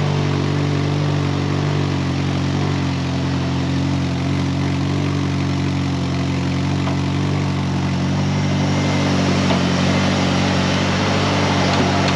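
Ford Ranger engine idling steadily through a cut-off exhaust, a little loud, just after being jump-started from a dead battery.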